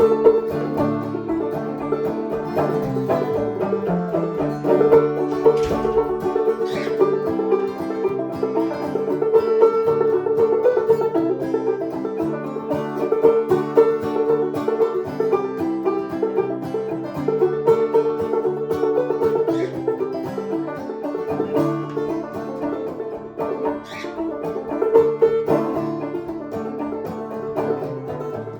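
A band playing an instrumental passage with no singing: a busy run of quick notes over a steady accompaniment.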